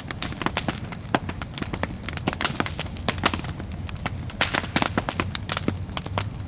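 Bonfire crackling, with many irregular sharp pops and snaps over a low steady rumble.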